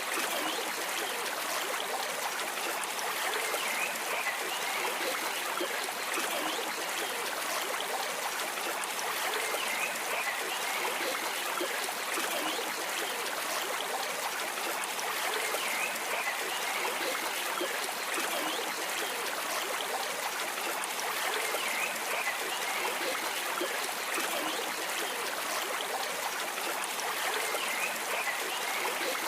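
Stream water flowing and trickling steadily, with no break or change.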